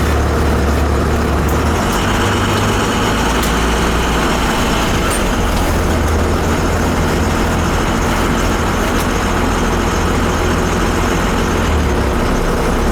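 A steady, unchanging low mechanical rumble, like a running motor or engine.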